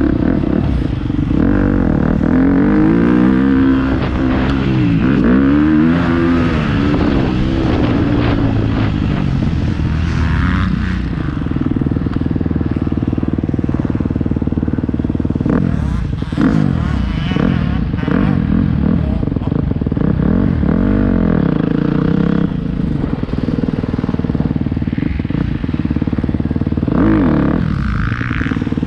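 Motocross dirt bike engine ridden hard around a track, its pitch rising and falling again and again as the rider works the throttle and shifts gears, heard from a camera mounted on the bike or rider.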